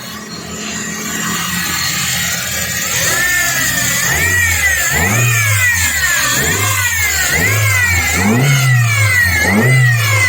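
Toyota 5A four-cylinder petrol engine running and being revved repeatedly, its pitch rising and falling about once a second from a few seconds in, as the freshly overhauled engine is tested.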